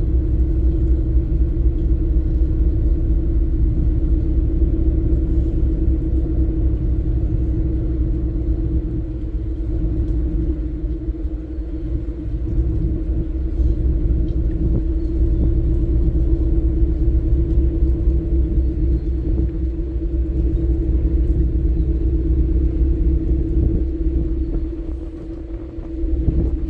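Steady low engine rumble with a constant mid-pitched hum over it. It holds level throughout and dips briefly near the end.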